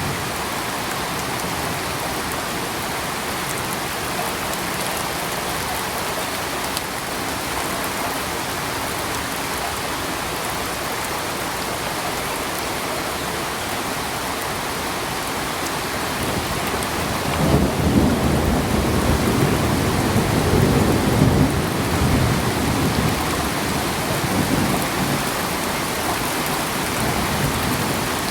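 Steady rainfall hissing. A little past halfway, a low roll of thunder comes in and rumbles for several seconds before slowly fading under the rain.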